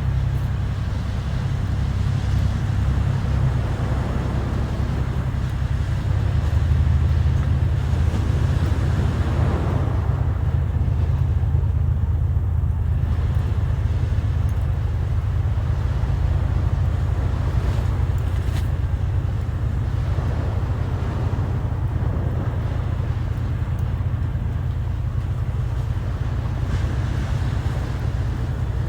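Sea waves washing ashore, swelling and fading, with wind buffeting the microphone as a steady low rumble.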